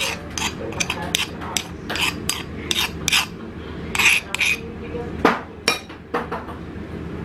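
Kitchen containers and jars clinking and knocking in a quick, irregular run of small knocks while someone rummages for a jar of olives, with two louder knocks a little past five seconds in. A steady low hum runs underneath.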